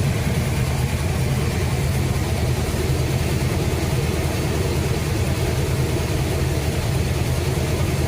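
A 1976 Chevy Bonanza pickup's engine idling steadily and running smoothly.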